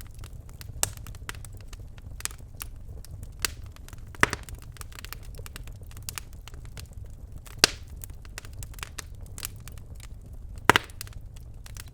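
Birch logs burning in a fireplace: irregular crackles and snaps, with three louder pops about four, seven and a half and ten and a half seconds in, over a low steady rumble of the fire.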